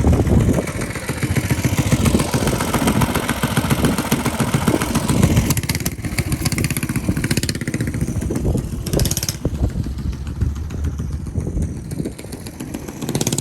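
Mini bike and motorcycle engines running nearby, with wind buffeting the microphone and a short hiss about nine seconds in.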